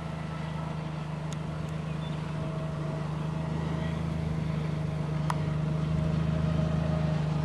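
A car's engine running steadily, a low even hum, with a few faint clicks.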